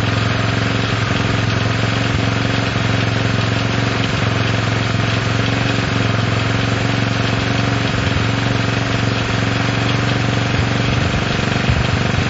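Honda CL70's small single-cylinder four-stroke engine running steadily at a fast idle, held there only by the idle screw turned almost all the way in. It will not settle to a normal idle.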